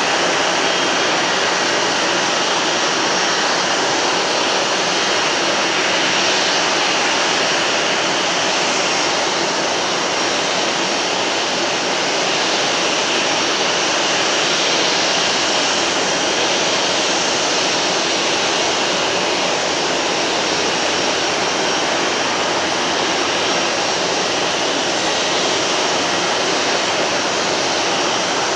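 Jet aircraft engine noise on the tarmac: a loud, steady rushing hum with a faint high whine running through it, unchanging throughout.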